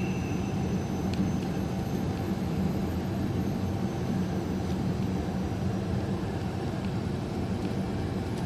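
Steady low drone of a truck's engine and road noise heard from inside the cab while driving at highway speed.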